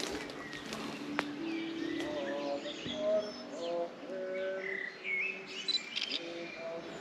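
Birds singing and calling: a mix of short whistled notes at many different pitches, some of them rising. A single sharp click about a second in.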